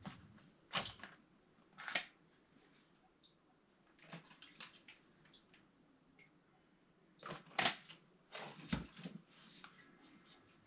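Scattered clinks, knocks and rustling from hands handling metal pipe fittings and tools, with a sharp metallic clink ringing briefly a little past halfway.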